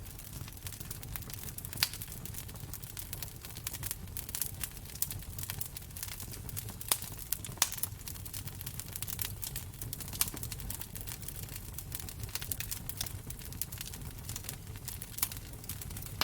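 Wood fire crackling in a fireplace: a steady stream of irregular pops and snaps, a few of them louder, over a low rumble of flames.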